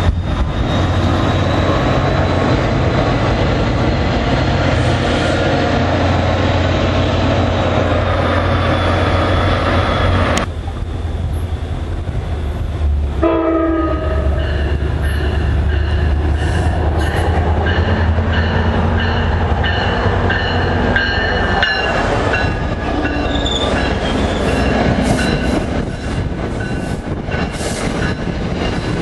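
NJ Transit diesel commuter trains passing close by: the first rolls past with a steady low engine drone, rumbling wheels and a thin high wheel squeal, cutting off about a third of the way in. A second train then comes in sounding its horn for several seconds, and its coaches roll past with clickety-clack of the wheels.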